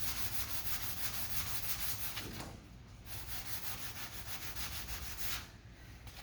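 Sanding block rubbed back and forth over primed body filler on a car panel, in quick even strokes, stopping briefly twice.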